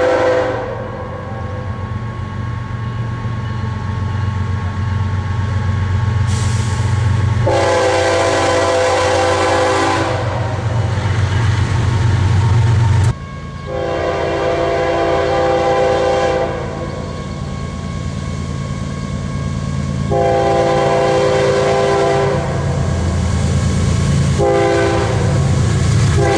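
Nathan K5HL five-chime air horn on a BNSF GE Evolution Series (Gevo) locomotive sounding several long blasts, each about two and a half seconds, spaced a few seconds apart. A steady low rumble of the train runs beneath, dropping briefly about halfway through.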